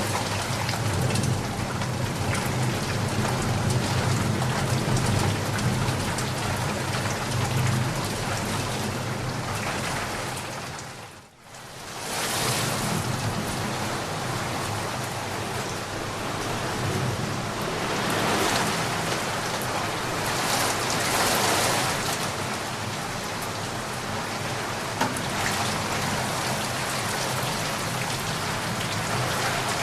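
Steady rain falling, a dense even hiss, with a deeper low rumble under it at first. About a third of the way in, it fades out almost to nothing for a moment and then fades straight back in.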